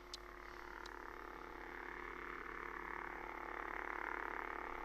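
Lightsaber replica's sound board playing its electronic idle hum, steady and slowly swelling a little louder, with two faint short high ticks near the start.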